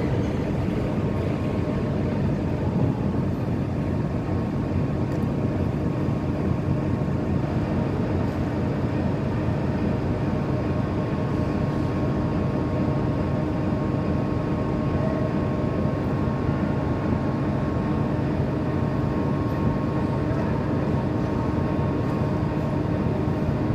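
Heavy machinery's engine running steadily and loudly with an even hum under the noise, as a machine works on a load of scrap.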